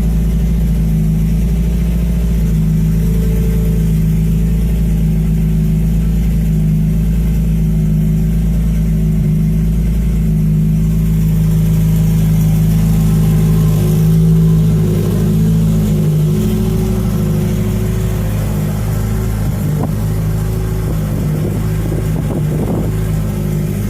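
Turbocharged Honda Civic engine idling steadily while it warms up just after being started, with a slight rise in level about fourteen seconds in.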